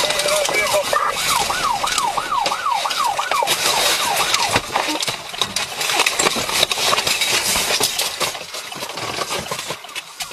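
Police car siren in a fast yelp, sweeping up and down about three times a second for a couple of seconds, over loud rushing road and wind noise with crackles that runs on after the siren stops.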